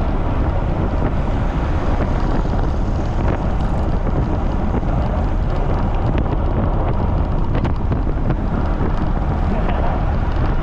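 Strong wind buffeting the microphone of a camera on a moving bicycle: a loud, steady rumble with a faint hiss above it.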